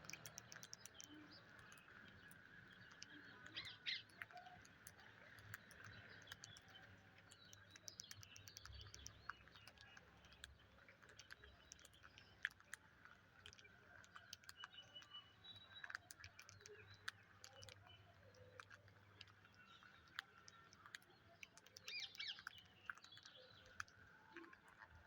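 Pet parrots giving faint short chirps among many scattered clicks, with a brief cluster of chirps about four seconds in and another near the end.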